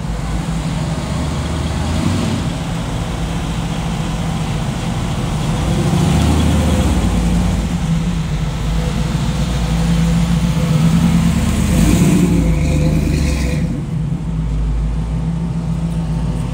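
Car engines running as show cars roll past, with occasional revving.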